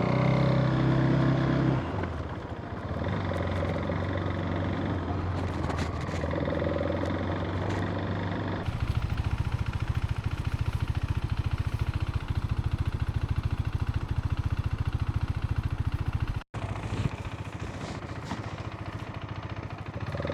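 Motorcycle engine running. From about halfway through it settles into a steady, even firing beat, with a brief dropout a few seconds before the end.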